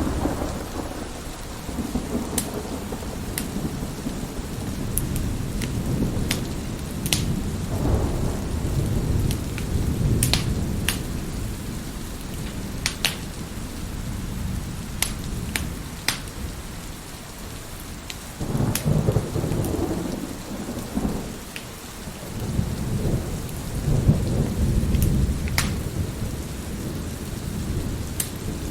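Steady rain with low rolling thunder that swells and fades several times, loudest in two long rumbles in the second half. Sharp pops and crackles of a burning wood fire in a fireplace are scattered throughout.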